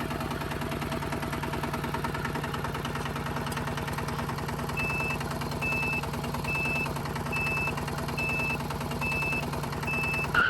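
A miniature DIY tractor's small engine running steadily with a fast, even pulse. From about halfway a reversing beeper sounds about once a second.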